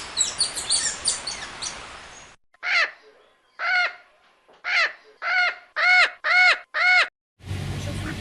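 Bird calls: high chirps over a hiss for the first second or so, then a run of seven harsh calls, about a second apart at first and quickening to about two a second.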